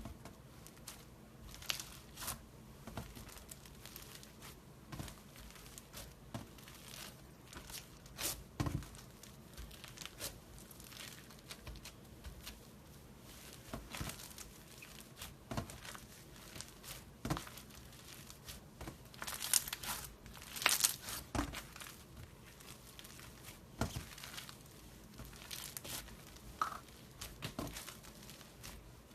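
Slime being squeezed and stretched by hand: irregular sticky crackles and small pops, with a louder burst of crackling about twenty seconds in.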